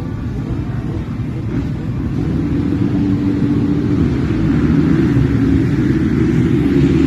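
Motocross dirt bike engines running on the track, growing louder from about two seconds in.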